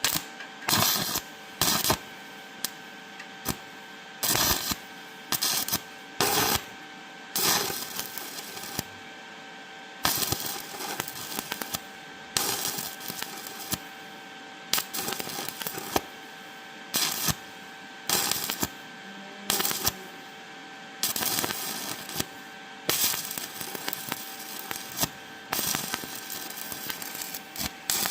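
Stick (MMA) welding arc from an ESAB 180i Pro inverter welder crackling in many short bursts, the arc struck and broken again and again: a 2.5 mm basic electrode at 55 amps stitching over a burned-through hole in thin 2 mm steel profile. A steady faint high tone runs underneath.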